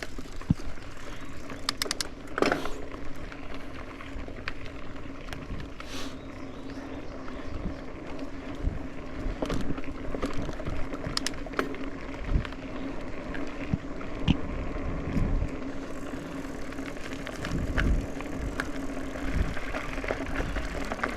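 Mountain bike riding over a dirt trail: tyres rolling, with a steady hum and scattered clicks, rattles and low knocks as the bike goes over bumps.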